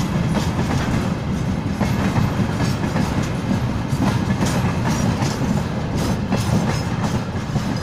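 Freight train wagons rolling past: a steady rumble of steel wheels on rail, with irregular clicks and clatter over the rail joints.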